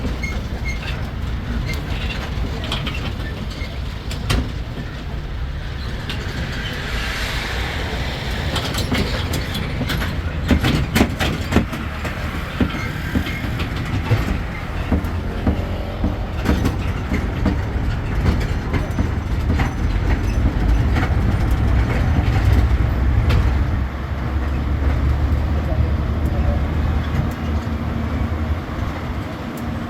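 Tourist road train on the move: a steady low engine rumble with the carriages rattling and knocking, a cluster of sharp knocks about ten to twelve seconds in, and the rumble growing louder for several seconds in the second half.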